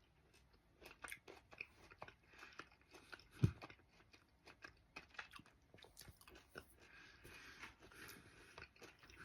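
A person chewing Nerds Gummy Clusters candy, faint close crunching and small clicks as the crunchy Nerds coating and gummy centre are bitten and chewed, with one low thump about three and a half seconds in.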